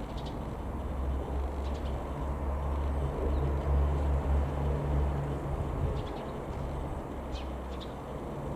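Low vehicle-like rumble that swells for a few seconds in the middle and then fades, with a few short bird chirps over it.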